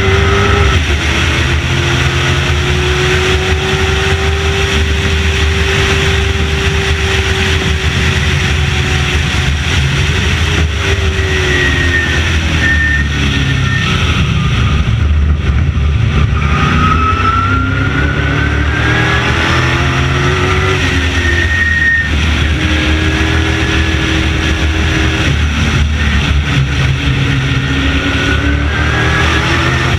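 Late model stock car engine running at racing speed, its pitch falling as it slows and climbing again as it accelerates, several times over.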